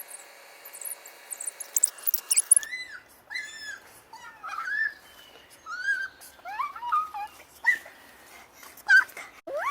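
Young birds calling: very high, thin chirps for the first couple of seconds, then a run of squeaky, whining calls that bend up and down in pitch.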